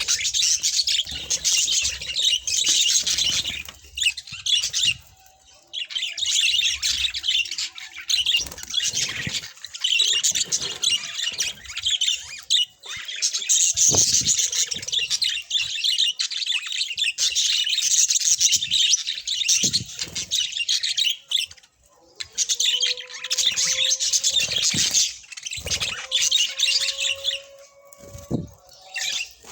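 Budgerigars chattering and warbling in long, dense bouts with short pauses, mixed with sharp clicks. A faint, steady low tone joins in over the last several seconds.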